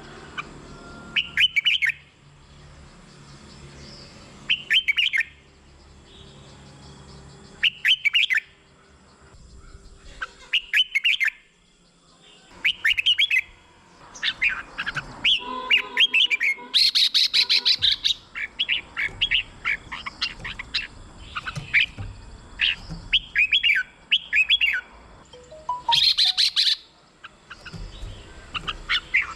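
Red-whiskered bulbul singing short warbling phrases about every three seconds, then a denser run of song in the second half, with two louder, higher rapid chattering bursts.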